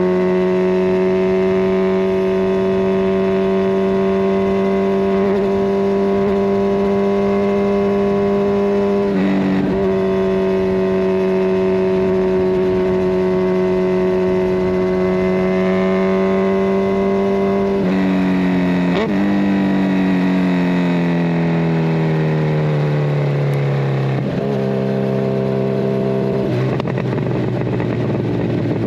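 Kawasaki Ninja 1000SX inline-four running through a decatted Scorpion Red Power exhaust, holding steady revs with a quick gear change about nine seconds in. After about eighteen seconds the engine note falls in steps as the bike slows and changes down, settling at a lower steady note near the end.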